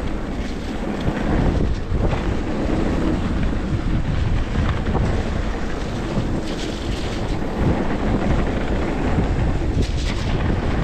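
Mountain bike being ridden along a trail, with wind rumbling steadily across the camera microphone and tyre noise from the ride underneath.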